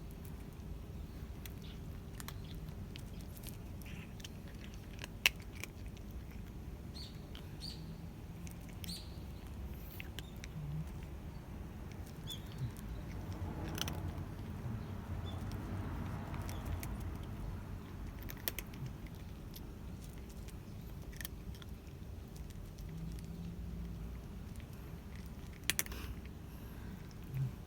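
A stray cat eating its breakfast, chewing with many small irregular clicks, with a few sharper knocks, one about five seconds in and two near the end.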